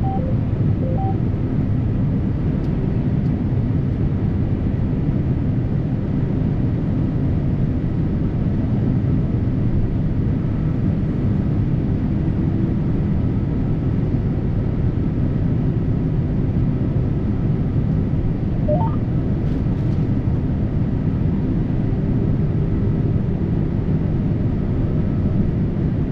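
Combine harvester running steadily while cutting soybeans: a constant low engine and machinery drone. A brief rising chirp comes about two-thirds of the way through.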